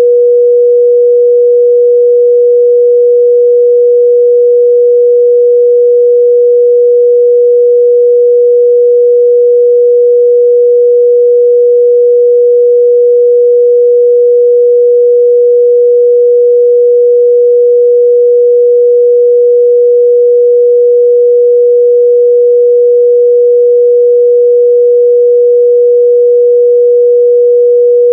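A steady, loud 484 Hz pure sine-wave test tone, one unchanging pitch with nothing else, used to test the midrange response of speakers and headphones.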